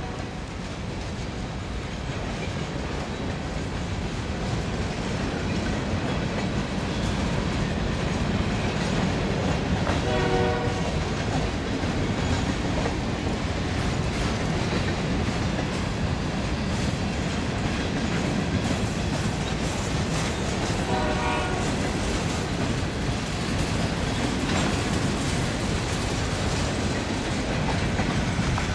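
Covered hopper cars of a grain train rolling past, a steady rumble of wheels on rail with clicking at the rail joints. A locomotive horn sounds two short blasts, about ten seconds in and again about eleven seconds later.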